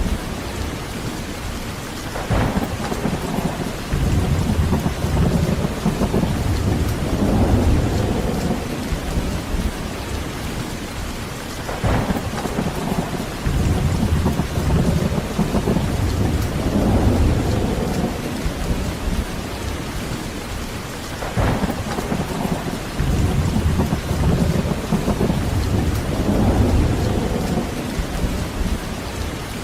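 Heavy rain falling steadily, with rolling thunder that rumbles up three times, each roll lasting several seconds.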